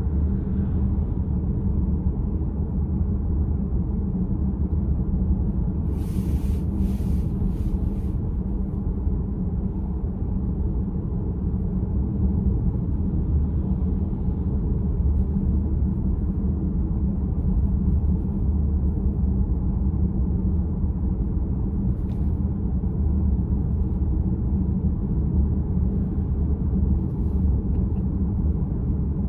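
Steady road and tyre rumble inside the cabin of a VW ID.4 electric car while driving, with a few brief faint clicks about six seconds in and once more later.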